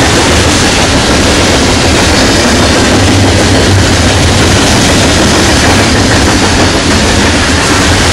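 Norfolk Southern train passing close by: a loud, steady rumble of wheels on rails.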